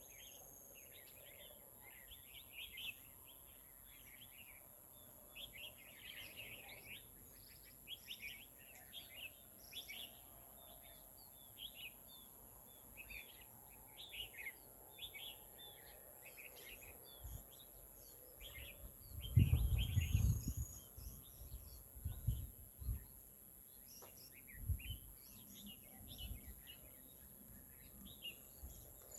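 Small birds chirping, many short quick calls overlapping, over a steady high-pitched hum. About two-thirds through comes a loud low rumble lasting a second or two, followed by a few softer low thumps.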